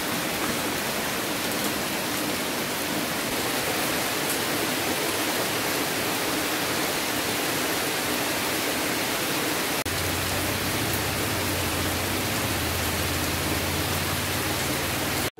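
Heavy rain pouring steadily on trees and foliage, an even hiss. A low hum joins underneath about ten seconds in, and the rain cuts off suddenly near the end.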